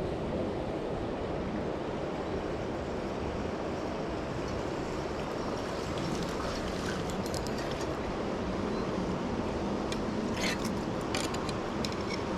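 River water rushing steadily, with a few faint light clicks in the second half.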